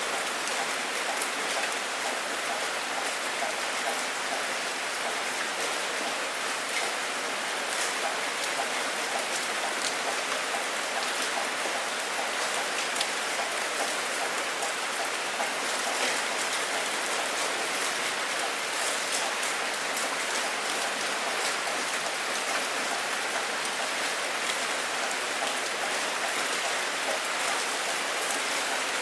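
Steady rain: an even hiss of falling rain, with single drops ticking sharply here and there on top.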